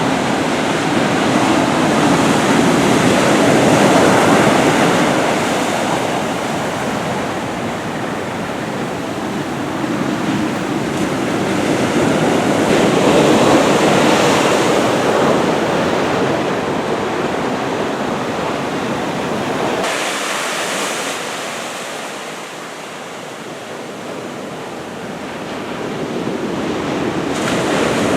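Ocean waves of a typhoon swell breaking and washing, a continuous rush that swells louder about four and fourteen seconds in and eases off for a while near the end.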